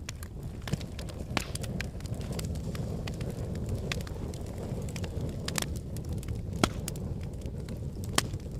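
Wood fire burning in a fireplace: a steady low rumble of flames with frequent sharp crackles and pops from the burning logs, two louder pops near the end.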